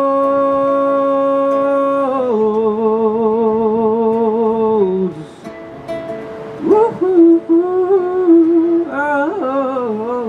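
A male singer holding the long closing notes of a song, with vibrato, over acoustic guitar, then a rising "woo-hoo-hoo" ad-lib near the end.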